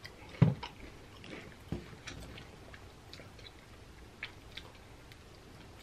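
Quiet close-up chewing and mouth clicks while eating nacho chips. About half a second in there is a single soft knock as a plastic juice bottle is set down on the table, and a lighter knock follows about a second later.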